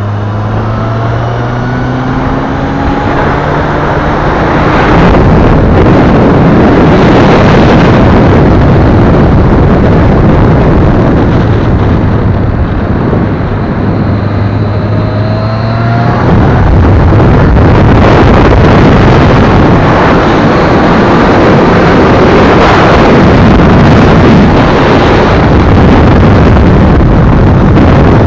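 Honda CBF1000's inline-four engine pulling up through the revs on track, its tone rising at the start and again about twelve seconds in, under loud wind rush on the onboard microphone that swamps the engine for much of the time.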